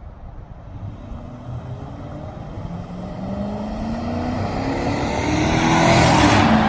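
Ford F250 pickup truck accelerating and coming closer, its engine note rising in pitch and growing louder to a peak near the end. The exhaust has a leak, which the owner blames on a poorly welded joint.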